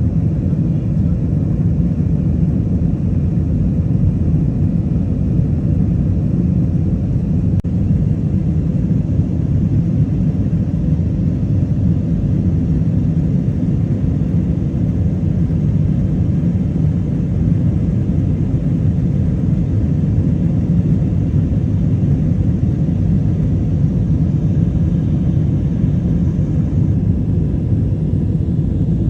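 Steady, loud low rumble of a running vehicle, unchanging throughout.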